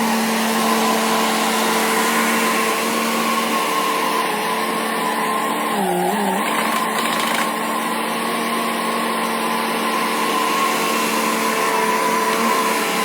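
Kubota mini skid steer's engine running steadily at high revs, its pitch dipping briefly about halfway through as it takes a load.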